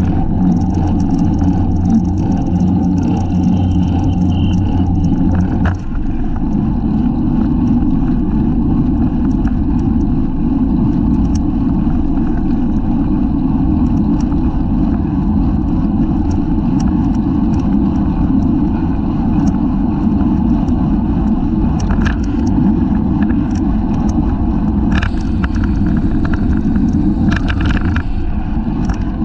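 Wind buffeting the microphone of a bike-mounted camera while riding in a criterium pack, with a steady deep rumble of wind and road. A low hum underneath stops about six seconds in, and a few light clicks come through later.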